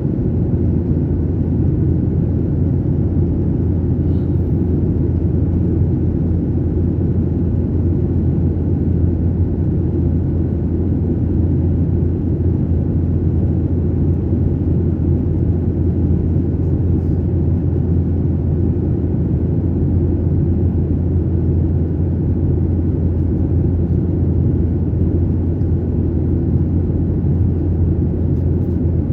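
Airliner cabin noise: the steady low rumble of the jet engines and rushing air heard from inside the passenger cabin, with a constant low hum beneath it.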